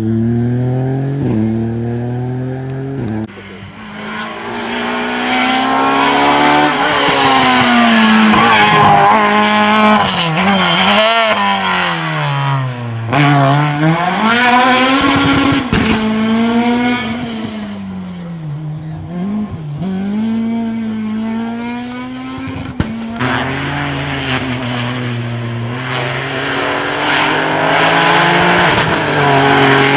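Rally car engine revving hard on a special stage, its pitch climbing and dropping repeatedly through gear changes and lifts. There is one sharp crack about two-thirds of the way through.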